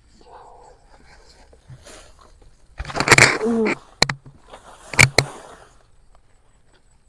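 Rustling of grass and weeds being pulled and cleared, in two loud stretches, with sharp snaps about four and five seconds in.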